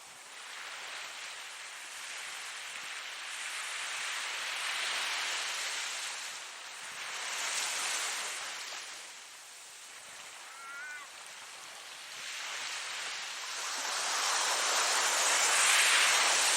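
Ocean surf: waves breaking and washing in, swelling and fading in several surges, the loudest near the end.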